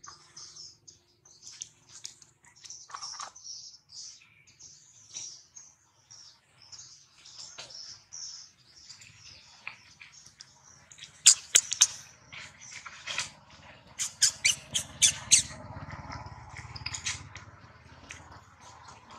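Small birds chirping in quick, high, repeated notes, then past the middle a run of loud, sharp clicks and smacks close to the microphone.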